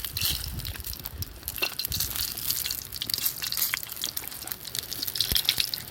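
Meat sizzling on a grill net over a wood campfire, a steady hiss broken by many small sharp crackles and clicks.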